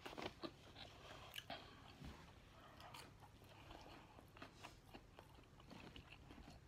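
Faint chewing of a McDonald's chicken nugget, with scattered small mouth clicks and soft crunches.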